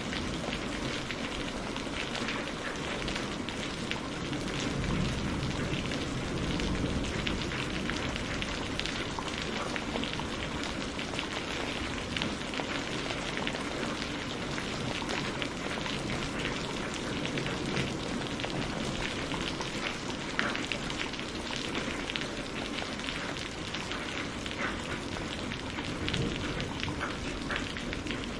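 Steady rain, with many individual drops ticking on a hard surface against the continuous hiss of the downpour.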